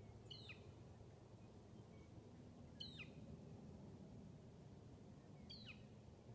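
A bird calling three times, each call a short high note that sweeps sharply downward, about two and a half seconds apart, over a faint low rumble.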